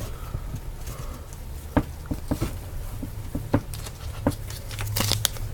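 Trading cards being handled on a table: scattered light clicks and taps as the cards are shuffled through and set down, over a faint steady low hum.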